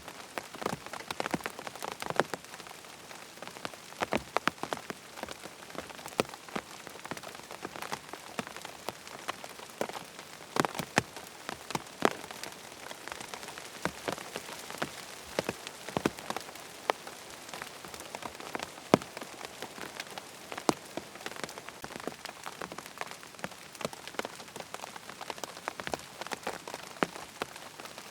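Rain falling on a tent: a steady patter with many irregular, sharper individual drop hits.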